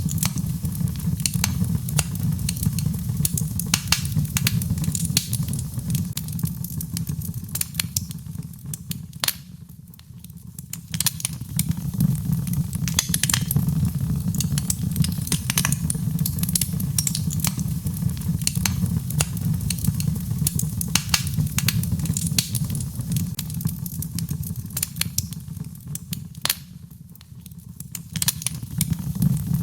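Birchwood fire burning in a fireplace, crackling with frequent sharp pops over a low steady rumble. The crackling thins out briefly twice, about ten seconds in and near the end.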